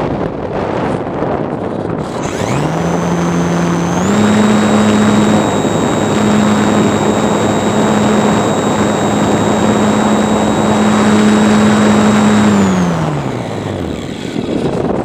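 RC plane's motor and propeller throttling up about two seconds in, stepping up again soon after and holding a steady pitch with a high whine, then winding down near the end. Wind rushes over the microphone throughout.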